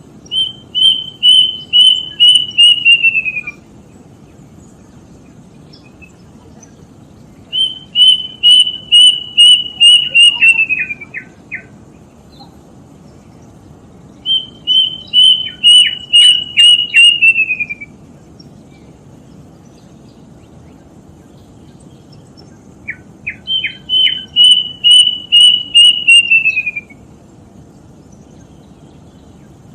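Plaintive cuckoo (kedasih) singing: four phrases, each a run of about ten quick whistled notes that slides down in pitch at the end, repeated every seven seconds or so. A few short lower notes are mixed in around the second, third and fourth phrases.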